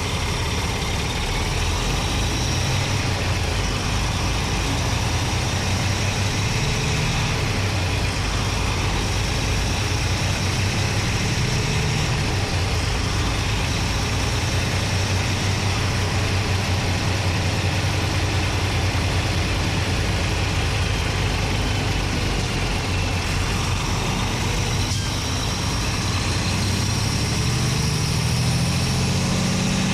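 Paccar MX-13 inline-six diesel engine running steadily, heard close up from inside the truck's engine bay. Its low note climbs a little near the end.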